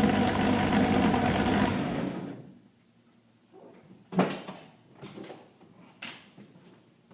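V8 engine in a Corvair running, then shut off about two seconds in and dying away. After it come a few light knocks and clatters, the loudest about four seconds in.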